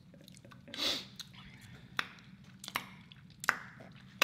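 A person's wet, close-miked chewing and mouth noises while eating. A short breathy hiss comes about a second in, then a row of sharp smacking clicks roughly every three-quarters of a second.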